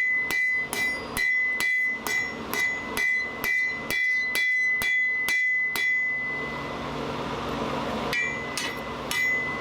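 A blacksmith's hammer striking hot steel on an anvil, thinning a forged hook, and the anvil rings at every blow. The blows come in a steady rhythm of about two or three a second, stop for about two seconds after six seconds, and start again near the end.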